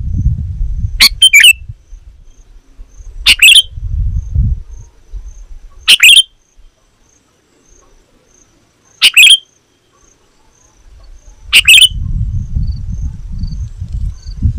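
Sooty-headed bulbul (kutilang) calling: five short, loud, high calls spaced about two to three seconds apart. A faint, even run of very high ticks sits underneath, and a low rumble comes and goes.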